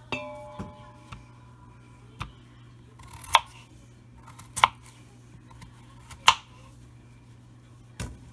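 Kitchen prep sounds: a metal utensil clinks and rings briefly, then several short, sharp scraping or cutting strokes, about a second or two apart. A steady low hum runs underneath.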